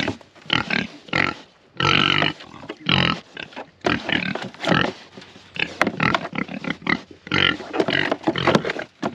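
Young feeder pigs calling over and over in short, loud grunts and squeals, about two a second, excited because they expect feed.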